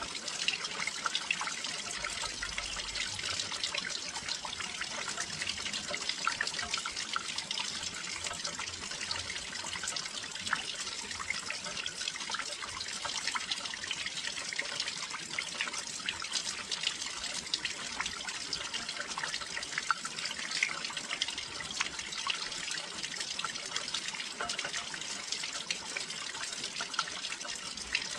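Steady rain falling by a windowsill: an even hiss dotted with many small, sharp drop hits.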